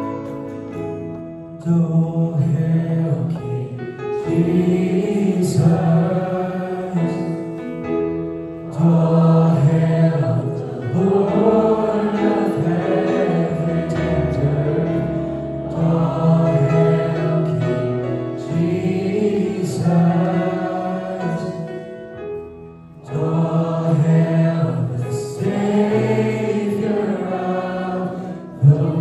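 A group of voices singing a worship song in unison over sustained instrumental accompaniment, in phrases with a brief pause about three quarters of the way through.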